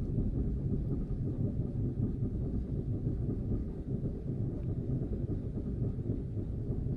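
Steady low rumble of a boat under way on a river, its motor blended with wind buffeting a phone microphone.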